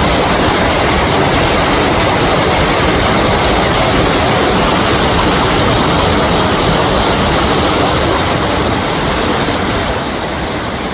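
Spring water welling up from under rock at a river head and rushing turbulently, a loud steady rush that eases a little near the end.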